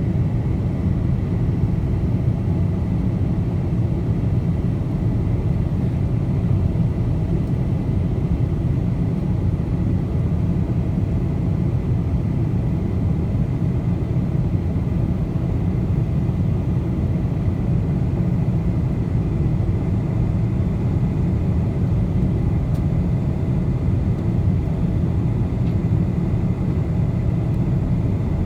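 Steady cabin noise inside a four-engine Boeing 747 airliner in flight: an even low rumble of engines and airflow, with a faint steady high whine.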